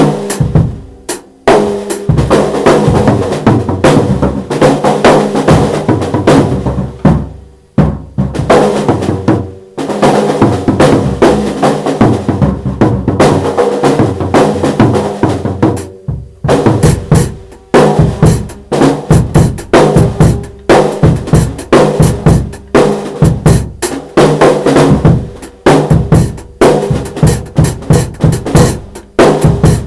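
Drum kit being played loudly in quick, irregular runs of bass drum, snare and rimshot hits, with short breaks between runs.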